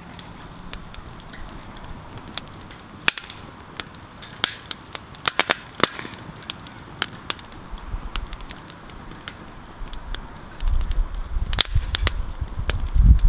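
Wood campfire crackling, with irregular sharp pops and a quick flurry of them about five to six seconds in. A low rumble comes in about ten and a half seconds in and grows louder toward the end.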